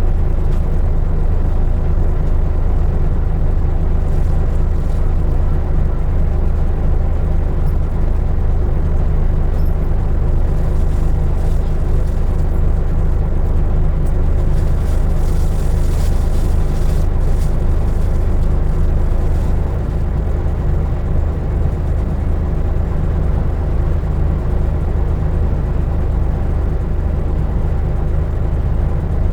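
2003 Isuzu Erga Mio (KK-LR233J1) city bus underway, its diesel engine running with a steady low hum and road noise. The sound drops a little about twenty seconds in.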